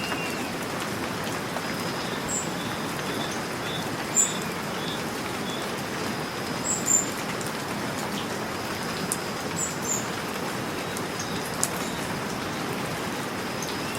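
Steady rain falling, with birds chirping now and then over it: short high chirps every second or two, and a quick run of repeated notes about four seconds in.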